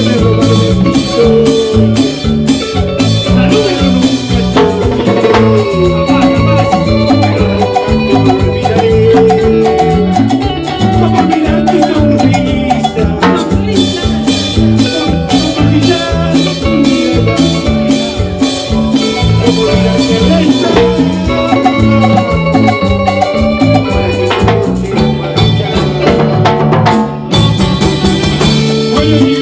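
A live band playing up-tempo Latin dance music, with a repeating bass line, busy percussion and melody instruments, loud and unbroken.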